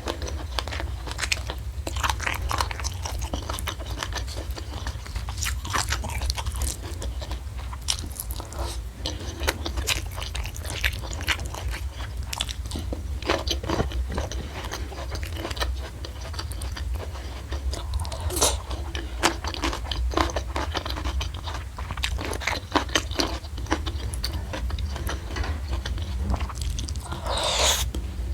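Close-miked chewing and crunching of raw vegetables and fried fish: many sharp crisp crunches and wet mouth clicks, over a steady low hum.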